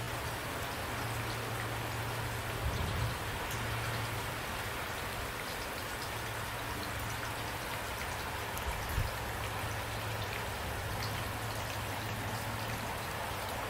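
Steady rain falling, with scattered individual drops and a steady low rumble underneath. Two brief low thumps stand out, about three seconds in and about nine seconds in.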